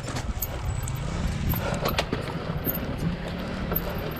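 Honda CRF300L's single-cylinder four-stroke engine chugging at low revs down a steep rocky singletrack, its pitch wavering, with a few sharp knocks from the bike over the rough ground.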